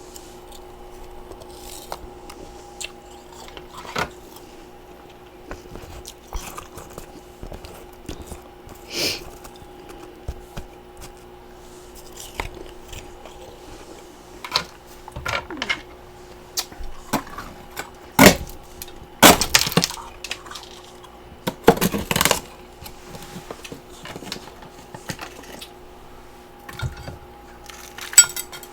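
Close-up crunching of chunks of freezer frost being bitten and chewed: scattered sharp cracks and snaps, with the loudest run of crunches a little past the middle. A steady hum runs underneath.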